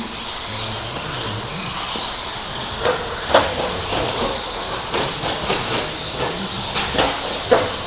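Radio-controlled trucks racing around a track: a steady hiss of motors and tyres. From about three seconds in come a series of sharp clacks as the trucks land jumps and knock into each other.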